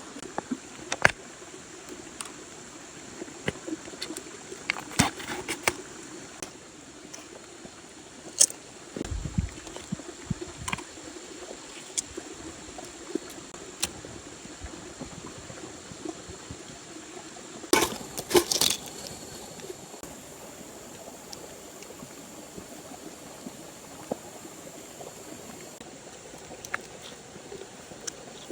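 Steady rain falling, with scattered sharp clicks and knocks throughout and a short louder clatter about eighteen seconds in.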